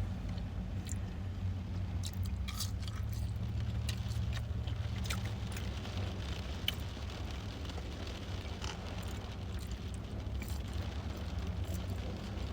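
Eating: chewing with scattered small clicks and rustles of food and packaging, over a steady low hum.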